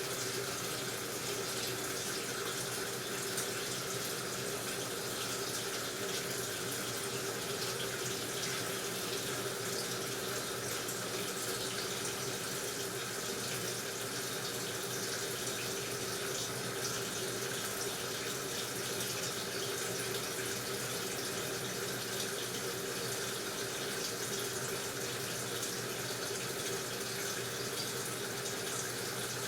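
Water rushing steadily through an AQUA washing machine, with a steady hum underneath.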